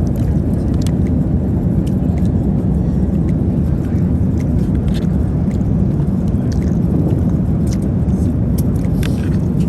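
Steady, loud cabin noise of an Airbus A380 in flight, a low even rush of air and engine sound. Faint scattered clicks and taps from eating at the tray table sit over it.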